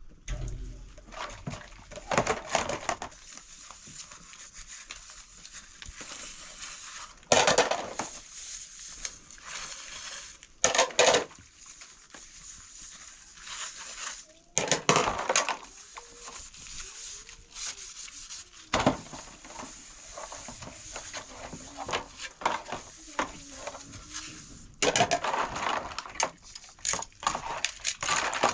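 Irregular scraping, rubbing and knocking of objects being handled, in bursts every few seconds over a steady hiss.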